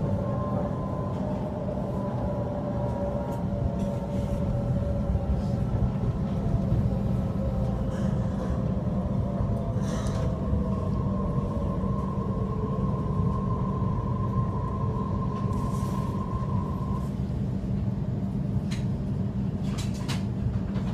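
Electric passenger train heard from inside the carriage: a steady low rumble of wheels on the track, with a motor whine that falls slowly in pitch and a few short clicks and squeaks.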